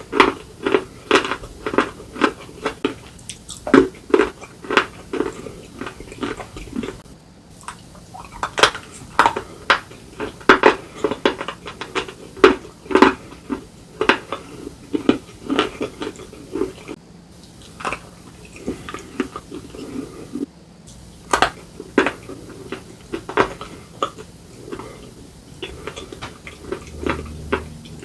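Slate pencils and slate bar with paste bitten and chewed close to the microphone: a long run of sharp, irregular crunches, roughly two a second, broken by three brief pauses.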